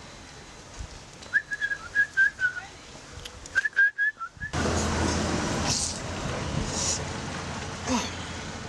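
Someone whistling two short phrases of quick high notes, followed about four and a half seconds in by a louder steady noise with a low hum.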